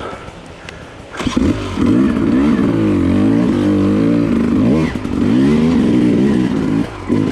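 Enduro dirt bike engine picking up about a second in, then revving up and down repeatedly as the throttle is opened and closed. It briefly eases off twice, the second time near the end.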